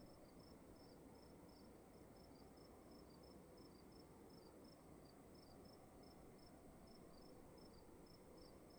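Faint crickets chirping, short chirps repeating about three times a second, over a steady high-pitched hiss and a low room rumble.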